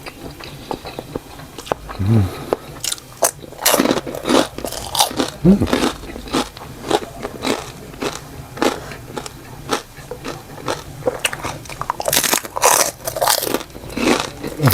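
Close-up chewing and biting of crisp, crunchy food, a run of sharp crunches in clusters, loudest about four seconds in and again a little before the end.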